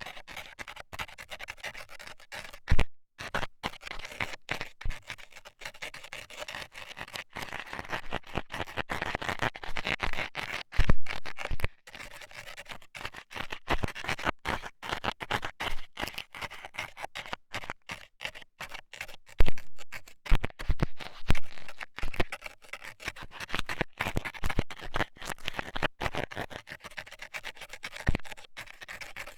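Metal scaler scraping and poking at an ASMR microphone's ear. It makes a dense, irregular run of close scratches and clicks, with a few sharper, louder strokes now and then.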